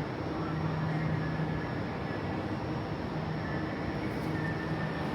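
Steady rumble and hum of an underground metro platform, with a low drone and a faint higher tone that fade in and out.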